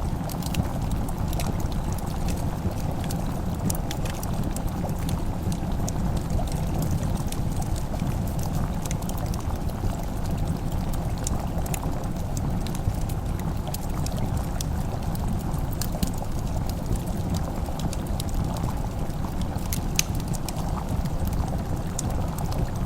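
Wood fire crackling, with scattered sharp pops over a steady low rumble, blended with the soft bubbling of a simmering pot.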